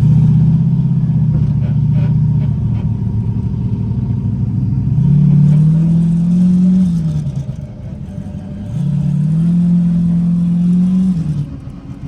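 Turbocharged LS V8 in a Camaro pulling hard under full throttle: the revs climb and hold twice, dropping away after each run. The engine is breaking up under load during the pull, a fault whose cause is not yet known.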